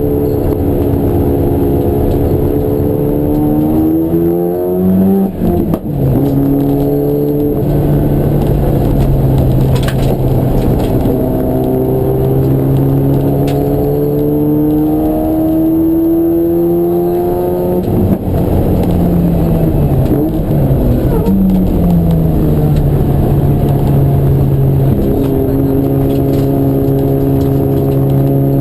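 Race car engine running hard without a break, its pitch climbing under acceleration and falling away, with brief sharp drops in level and pitch like gear changes about five seconds in and twice more about two-thirds of the way through.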